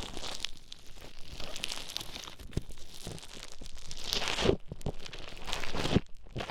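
Play foam being kneaded and mixed right at the microphone, a dense, irregular crackling and crunching with many small clicks, in the style of an ear-cleaning sound.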